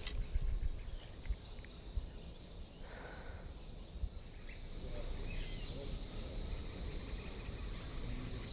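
Insects chirring steadily, over a low rumble with a few short knocks.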